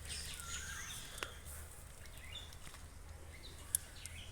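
Faint bird chirps, a few short rising and falling calls, over a low steady hum, with two sharp clicks.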